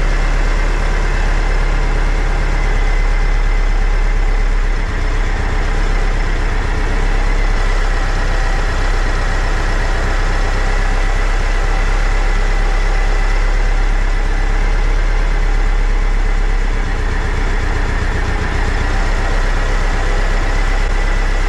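VW Bus air-cooled flat-four engine on dual 48 IDA carburettors, idling steadily with a steady high whine over the engine note. The idle note shifts a little about five seconds in and again near the end as the idle speed screws are turned to balance the carburettors.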